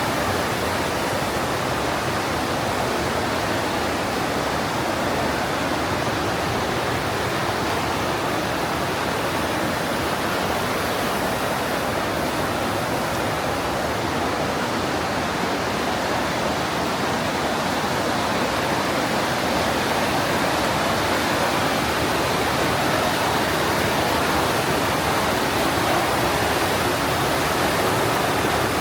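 Partnach mountain stream rushing through its gorge: a loud, steady rush of whitewater.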